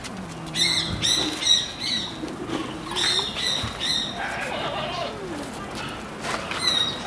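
Capybara giving its bird-like chirping call: short, high, twittering chirps in quick runs of three or four, with a single chirp near the end.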